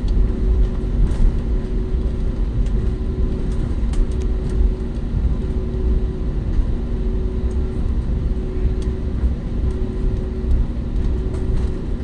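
Airliner cabin noise before takeoff: a steady low rumble from the engines and air system, with a faint steady hum over it.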